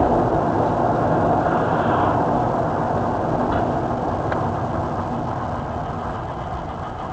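Steady vehicle engine and road noise, slowly getting quieter, with a couple of faint ticks midway.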